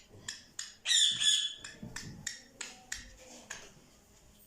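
Black francolin giving a harsh, grating call about a second in, over a run of short sharp ticks, about three a second, that die away partway through.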